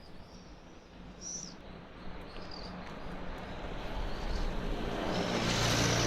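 Small birds chirping, then a passing motor vehicle that grows steadily louder, peaking near the end.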